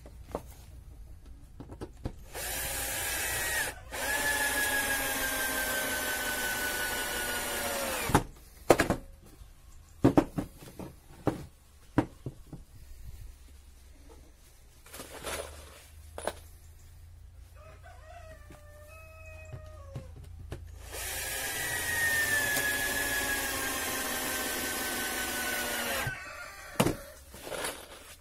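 Power drill running twice for about five or six seconds each, its pitch sagging a little under load, as when driving screws into pallet-wood boards. Sharp knocks and clicks of wood and tools come between the two runs, and a rooster crows once in the background.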